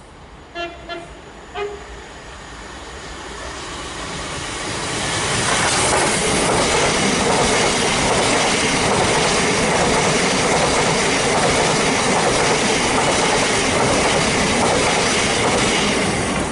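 An electric multiple-unit passenger train sounds a few short horn blasts about half a second in as it approaches. It then passes through the station at speed, with a rush of wheels and motor noise that builds over a few seconds and then stays loud and steady, with wheel-on-rail clatter.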